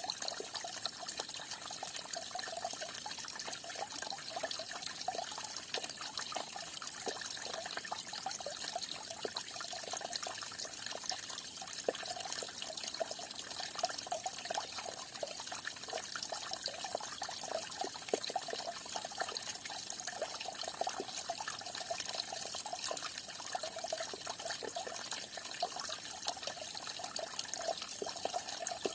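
Falling water splashing steadily into water: a continuous trickling rush dotted with many small splashes and drips.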